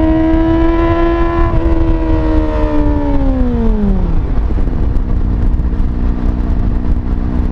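Kawasaki ZX-25R 250cc inline-four engine through a slip-on exhaust with no dB killer, holding high steady revs. The revs then fall smoothly over about two seconds and settle at a lower steady note near the end.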